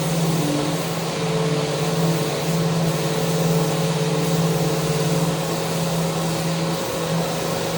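Electric power sander running steadily while sanding a mounted handrail: a constant motor hum over an even sanding hiss.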